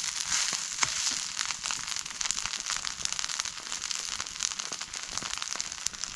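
Rice frying in a hot pan, sizzling with a dense run of small crackles and pops.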